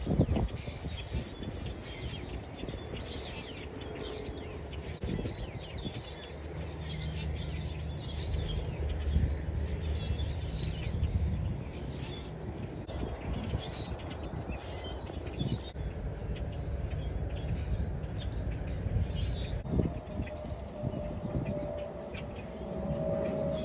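A flock of small birds chirping, many short high calls overlapping, over a low background rumble with a steady mechanical hum partway through.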